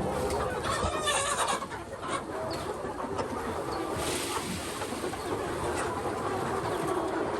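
Chickens clucking, with scattered short calls from several birds, busiest about a second in.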